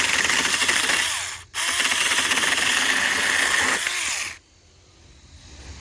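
Saker 4-inch cordless electric mini chainsaw running and cutting through old, dry wood. It stops for a moment about a second and a half in, runs again, and cuts off about four seconds in.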